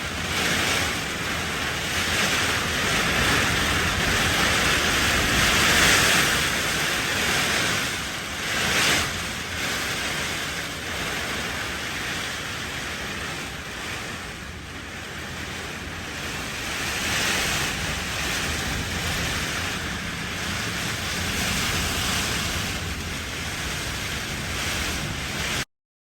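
Typhoon-force wind gusting hard, a loud roaring rush that swells and eases in gusts, strongest about six and nine seconds in, and cuts off suddenly near the end.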